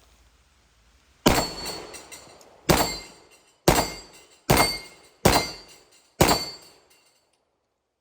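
Six 9mm shots from a Glock 19 pistol, fired at an uneven pace about a second apart, each with a short echoing tail.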